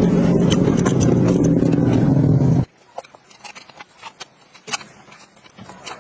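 An engine running steadily that cuts off abruptly about two and a half seconds in, followed by scattered faint clicks and knocks.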